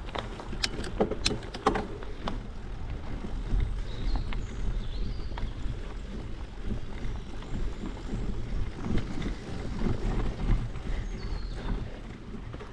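Bicycle riding along a trail: a steady low rumble of tyres and wind on the microphone, with scattered clicks and rattles, most of them in the first two seconds, and a few faint high chirps.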